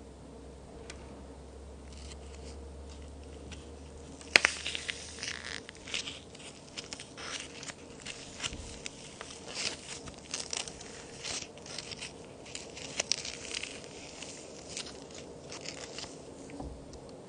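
Handmade plaster-and-clay toy cookie breaking with one sharp snap about four seconds in, followed by a long run of dry, irregular crackling and crunching as it crumbles.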